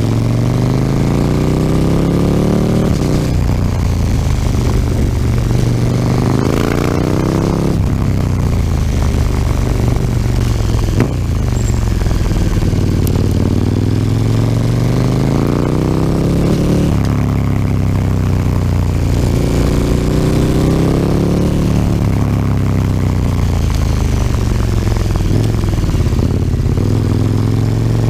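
KTM 1290 Super Duke R's big V-twin engine through an Akrapovič slip-on exhaust, under way: the engine note climbs under throttle and drops back again, over and over.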